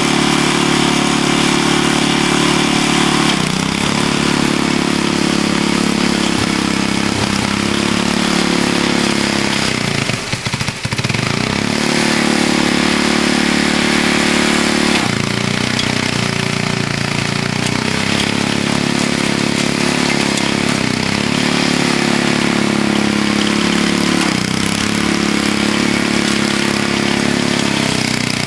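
Vintage Snow Bird snowblower's small gasoline engine running hard, with the choke partly out to keep it running. Its pitch sags and recovers several times as it bogs down in hard ice-packed snow, with one brief deep dip about ten seconds in.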